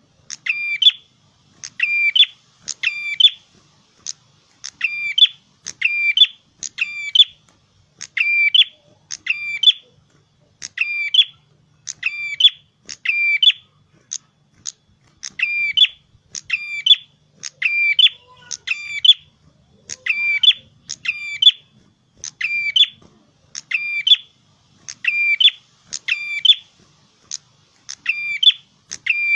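Red-headed prenjak (prenjak kepala merah) singing lively: a loud, sharp chirping phrase repeated about once a second, often in quick pairs, with no let-up.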